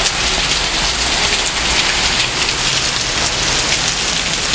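Heavy rain falling steadily on a paved patio, garden furniture and leaves in a thunderstorm downpour.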